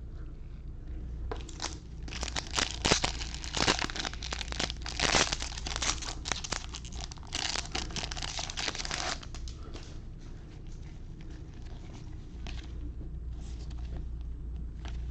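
Wrapper of a 2021 Bowman baseball card pack being torn open and crinkled, a loud crackly rustle that lasts several seconds, then softer handling of the cards near the end.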